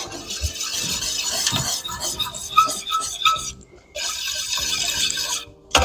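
A spoon stirring tomato sauce and dried herbs and spices in a pan, a steady scraping swish that stops briefly twice.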